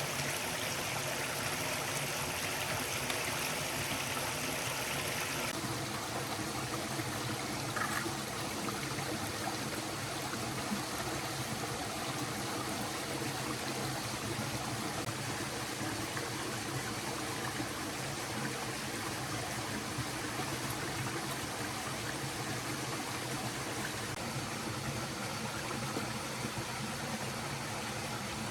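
Forest stream flowing steadily over rocks. About five seconds in, the brighter, hissier part of the water sound drops away, leaving a softer, steady rush.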